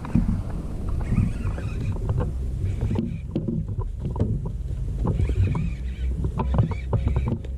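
Kayak moving on the water: water sloshing and splashing along the hull with irregular knocks and clicks, over a steady low rumble.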